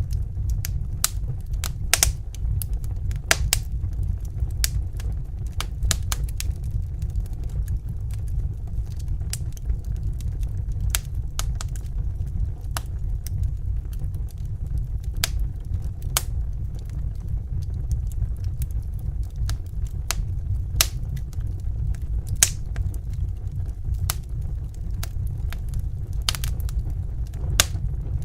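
Wood fire crackling in a fireplace: irregular sharp pops and snaps, several a second with a few louder cracks, over a steady low rumble of the burning fire.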